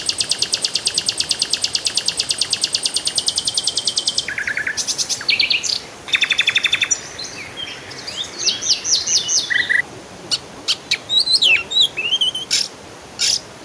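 Songbirds singing: a fast, even trill of rapid high notes for about four seconds, then a run of varied chirps, short whistled phrases and sharp single calls.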